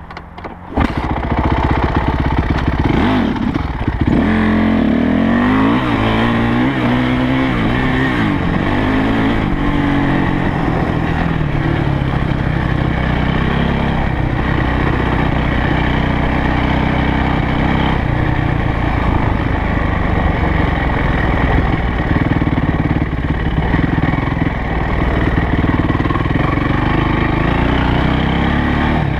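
Yamaha YZ450F dirt bike's single-cylinder four-stroke engine under way, heard from on the bike. The throttle opens about a second in, the revs rise and drop several times over the next several seconds, and then the engine runs at a steady pace.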